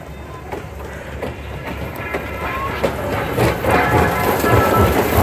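Passenger train led by a Thomas the Tank Engine locomotive approaching and passing close, growing steadily louder, its wheels clicking over the rail joints.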